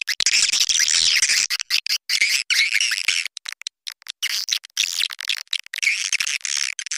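Swiftlet call recording: dense, rapid, high-pitched chirping and twittering, broken by brief gaps. This is the kind of lure call played to draw swiftlets into nest houses.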